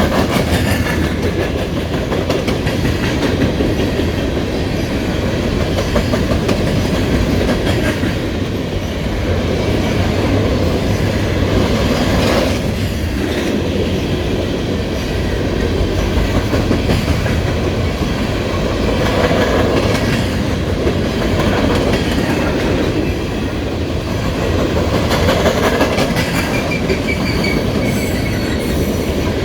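Cars of a Norfolk Southern coal train rolling past, a loud, steady rumble.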